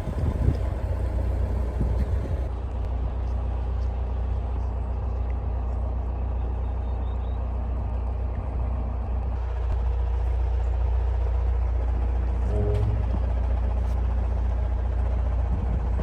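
Narrowboat's diesel engine running steadily at cruising speed, a constant low drone.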